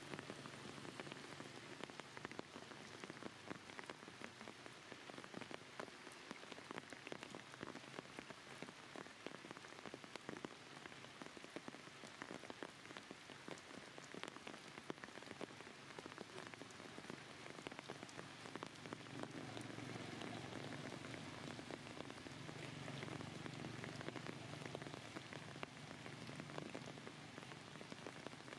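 Rain and water drops falling on the ground and surrounding surfaces: a steady faint hiss of many small drops.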